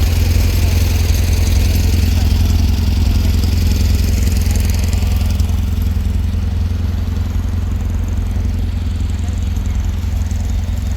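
A vehicle engine running steadily with a deep low rumble.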